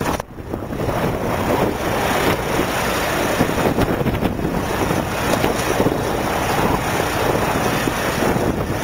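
Blizzard wind blowing hard across the microphone, a steady dense rush of noise with gusts.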